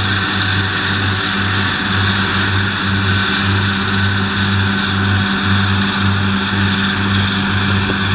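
2018 New Holland T7.315 tractor's 6.7-litre six-cylinder diesel engine running steadily, with a low hum that pulses about three times a second.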